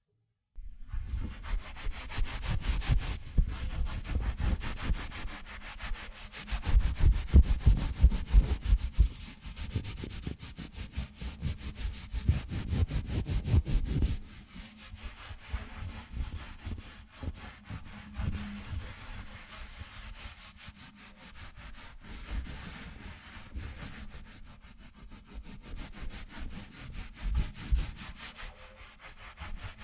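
Towel rubbed close against the microphone in quick, continuous rubbing strokes, drying the hair. The strokes are heavier and louder for the first fourteen seconds or so, then lighter.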